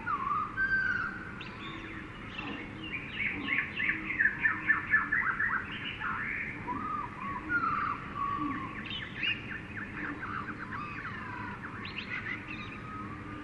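Jungle soundscape of several birds calling and chirping over a steady background hum, with a fast run of loud chirps about three to five seconds in.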